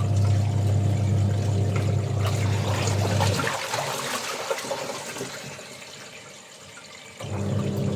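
Water sloshing and running with an electric motor humming under it. The hum stops about three and a half seconds in, leaving the water sounds, and starts again near the end.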